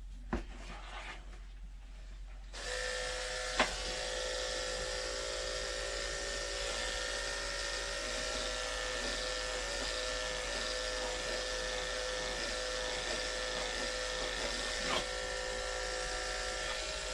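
Andis electric pet clippers switch on about 2.5 s in and run with a steady buzzing hum while shaving matted fur off a cat. A few short clicks cut through the hum.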